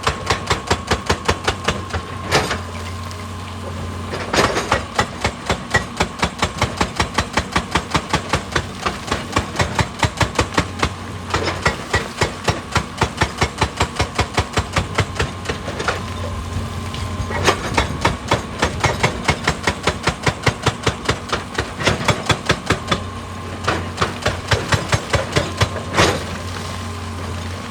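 Hydraulic rock breaker on an excavator hammering rock: fast, even blows, several a second, in long runs with short pauses. The excavator's diesel engine runs steadily underneath.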